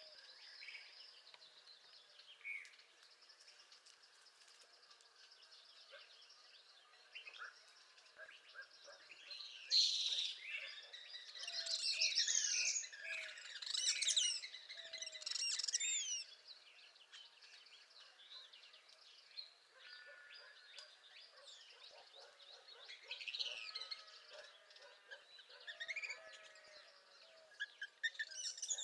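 Northern parula and other songbirds singing in a spring chorus, many overlapping phrases of high, quick notes, loudest for several seconds in the middle.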